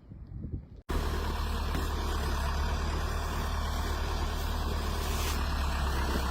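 A vehicle engine running steadily, a low hum under a wide hiss. It starts abruptly about a second in.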